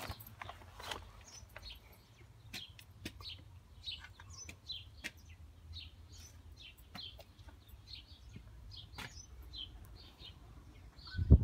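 Small birds chirping, short high chirps about two a second, over a low rumble. A loud knock just before the end.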